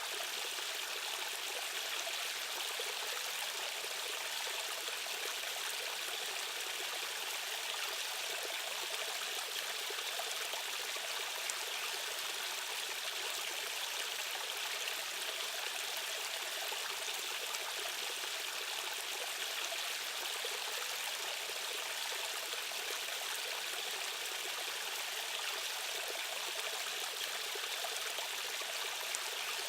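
Fast-flowing stream water rushing steadily over rocks: an even, unbroken hiss that is bright and has almost no low rumble.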